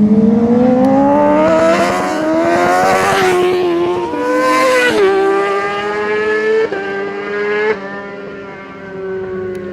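Racing superbike engine at high revs, its pitch climbing under acceleration, then dropping in steps as it shifts up about four and five seconds in; it fades out over the last couple of seconds.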